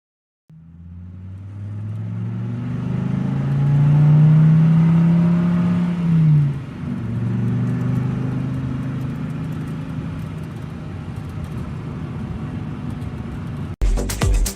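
Car engine starting and revving up, its pitch climbing over several seconds, then dropping sharply and running steadily at lower revs.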